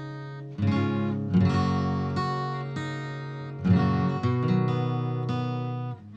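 Acoustic guitar strumming: several chords are struck and left to ring, each dying away before the next.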